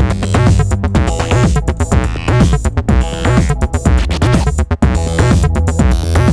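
Make Noise eurorack modular synthesizer playing a sequenced acid line from its DPO and XPO oscillators through low-pass and band-pass filters, with gliding pitch sweeps over a steady electronic drum pattern.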